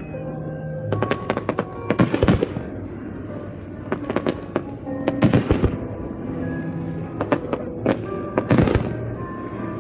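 Starmine fireworks display going off in rapid volleys of sharp bangs, the heaviest clusters about one, four and eight seconds in, over music played with the show.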